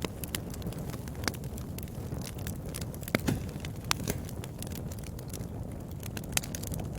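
Wood fire burning in a fireplace: a steady low rumble of flames with irregular sharp crackles and pops, the loudest a little after three seconds in.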